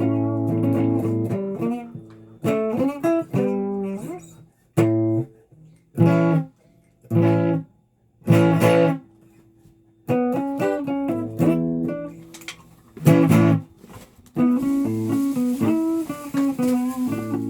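A guitar being played: a ringing chord, then a run of separate strummed chords with short pauses between them, going over into steadier continuous strumming near the end.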